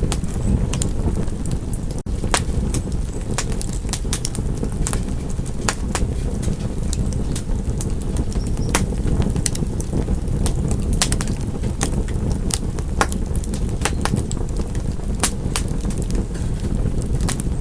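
Wood fire crackling in a fireplace: irregular sharp pops and snaps over a steady low rumble of the flames, with a momentary gap about two seconds in.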